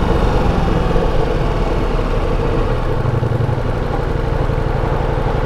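Ducati Multistrada V4S's 1158 cc V4 engine running steadily as the motorcycle rides along, with road and wind noise.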